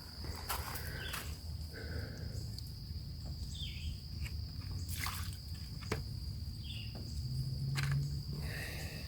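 Crickets trilling steadily at one high pitch, with a few sharp clicks and several short chirps over a low hum.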